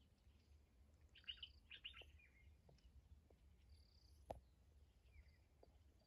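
Faint bird calls over a very quiet evening background, with a few quick sweeping notes about a second or two in. A single click comes a little past the middle.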